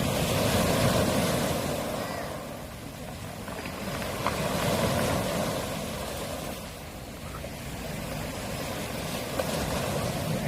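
Small waves washing up a pebble beach, swelling and drawing back about three times, with pebbles rolling and clicking in the backwash.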